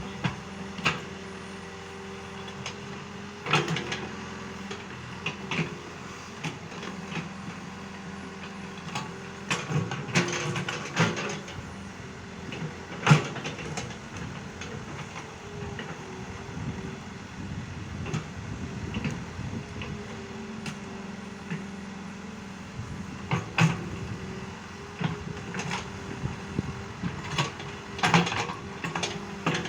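Excavator engine running steadily, with scattered sharp knocks and clanks throughout, the loudest about halfway through.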